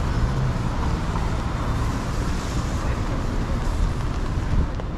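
Steady rumble and hiss of city traffic on a wet street, with wind noise on the microphone.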